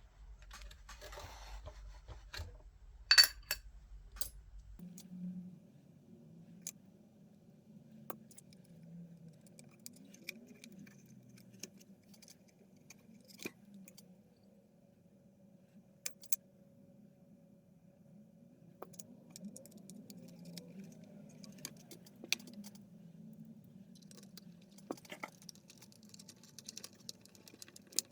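Small metal tools and parts clinking and tapping at a workbench, with a sharp loud click about three seconds in. From about five seconds in, a low steady hum runs underneath.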